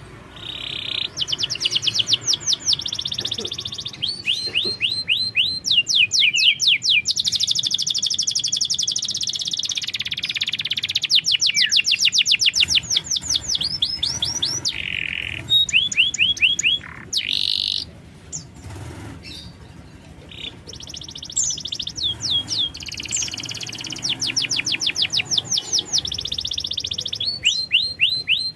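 Domestic canary singing: long, fast trills of quickly repeated sweeping notes, broken by a brief lull about two-thirds of the way through.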